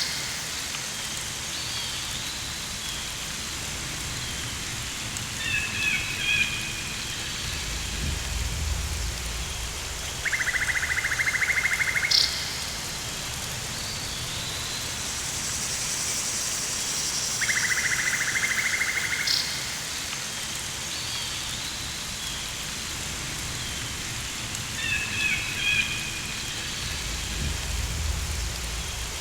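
Rainforest ambience: a steady rain-like hiss, with a pulsing, buzzing trill that comes in three times for about a second and a half each, chirping bird calls twice, a couple of sharp clicks, and two low rumbles.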